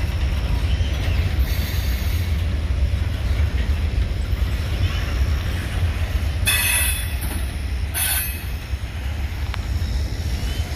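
Freight train cars rolling past with a steady low rumble on the rails. Twice, a little past the middle, there are short bursts of high-pitched wheel flange squeal.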